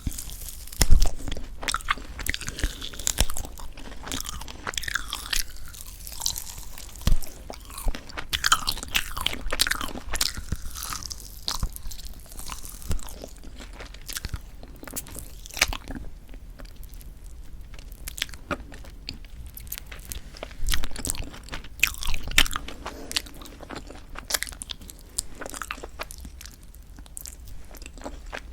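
Close-miked biting and chewing of an owl-shaped marshmallow pop, with irregular sticky crackles and crunching bites and a few louder bites. The marshmallow is very tough and chewy, which the eater puts down to poor storage.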